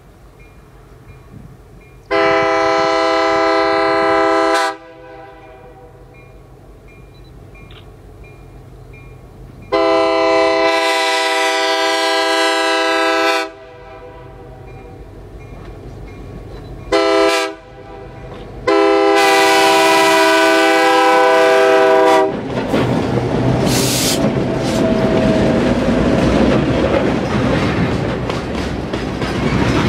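Diesel locomotive air horn on an approaching loaded sand train led by an EMD GP8, sounding the grade-crossing signal: long, long, short, long. As the last blast stops, the locomotives run past close by, followed by loaded covered hopper cars rolling past on the rails.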